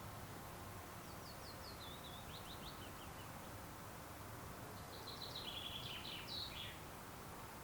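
A songbird singing two short phrases of quick notes stepping downward, about a second in and again about five seconds in, over a steady faint hiss of outdoor ambience.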